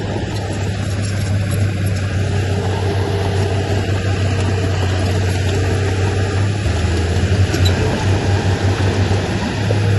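Heavy diesel engine of earthmoving machinery running with a steady low drone that turns uneven and pulsing about seven seconds in.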